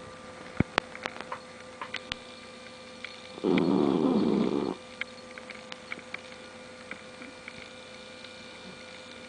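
A pet dog snoring: one loud snore about three and a half seconds in, lasting just over a second, with scattered faint clicks around it.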